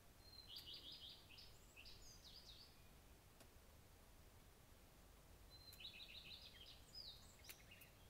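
Faint song of a songbird: two short phrases about five seconds apart, each a quick run of repeated high notes followed by a few varied notes that drop lower at the end.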